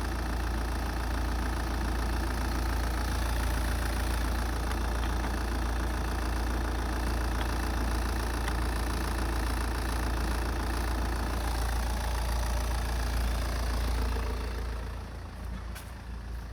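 Opel Z19DTH 1.9 CDTi four-cylinder turbodiesel idling steadily with a diesel clatter, then the sound drops away near the end.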